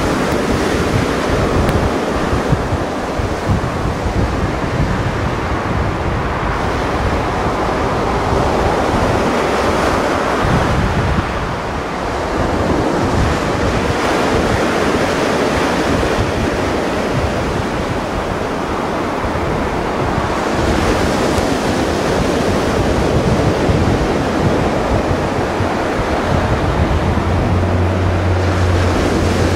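Mediterranean Sea waves washing and breaking, rising and falling in waves, with wind buffeting the microphone. A steady low hum joins near the end.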